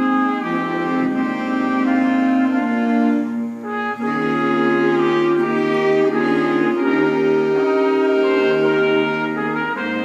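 School wind band playing a piece, holding full sustained chords under a moving melody, with a brief thinning of the sound about three and a half seconds in.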